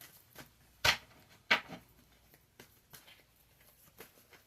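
Tarot cards being handled: a few sharp card snaps and taps, the two loudest about a second and a second and a half in, with fainter clicks after.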